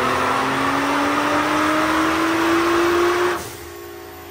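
Nissan R35 GT-R's twin-turbo V6 at full throttle on a chassis dyno, its pitch rising steadily through a pull. A little over three seconds in the throttle closes, the sound drops sharply and the engine winds down.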